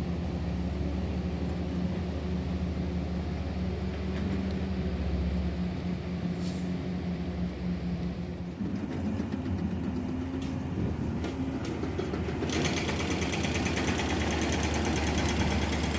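Heavy diesel engine running steadily with a low hum. Its tone shifts about halfway through, and more hiss and rattle join in over the last few seconds.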